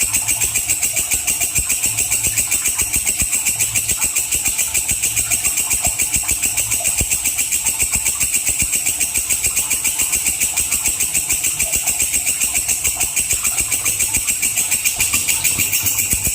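Walang kecek katydid stridulating, a shrill, steady call made of a fast, even train of pulses.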